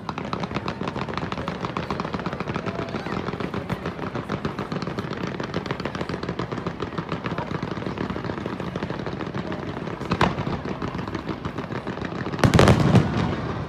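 Fireworks going off in a rapid, continuous rattle of crackling reports, like machine-gun fire. There is a single sharp bang about ten seconds in, and a louder cluster of heavier shell bursts near the end.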